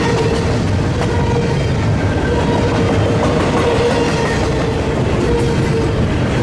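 Double-stack intermodal freight train passing close by: a steady rumble of steel wheels on the rails under the loaded container well cars, with a faint whine that comes and goes.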